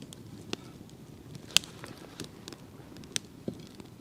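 Wood campfire crackling, with a few scattered sharp pops; the loudest comes about a second and a half in. The wood is not fully dry and is giving off some smoke.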